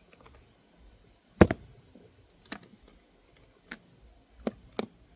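Sharp clicks and knocks from an aluminium-framed rolling makeup case being closed and handled, about five in all, the loudest about a second and a half in and two close together near the end.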